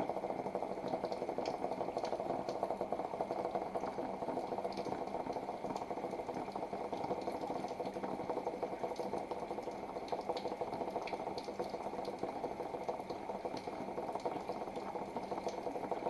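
Water spraying down onto a cardboard box fort: a steady, dense pattering of drops on the soaked cardboard, really loud.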